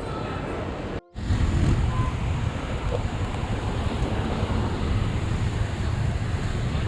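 Steady rumbling noise of wind buffeting the microphone and road traffic. It drops out suddenly for a moment about a second in, then comes back louder.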